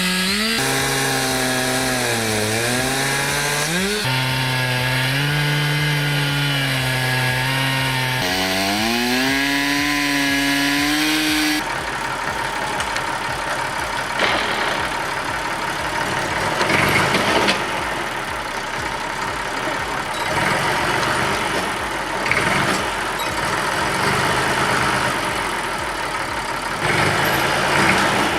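A chainsaw engine running under load while milling, its pitch dipping and recovering as the cut bogs it and it picks up again. About twelve seconds in it gives way abruptly to a rougher, noisier machine sound that surges and eases.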